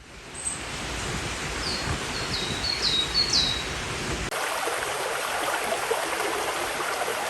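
Steady rush of flowing water, like a forest stream, with a small bird giving about five short, downward-sliding chirps between about one and a half and three and a half seconds in. About four seconds in the background changes abruptly and loses its low rumble.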